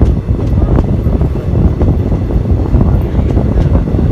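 Passenger express train running along the track: a steady low rumble with wind buffeting the microphone.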